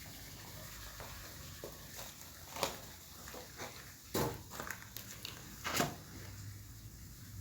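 A few scattered light knocks and clicks over a steady low hum.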